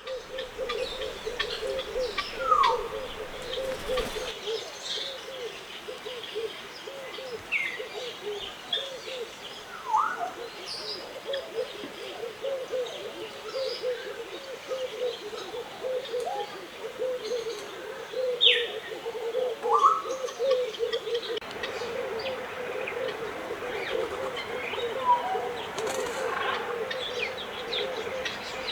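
Mixed bird chorus in a walk-through aviary: a dense, steady chatter of low-pitched calls, with single whistled calls sliding up or down every few seconds.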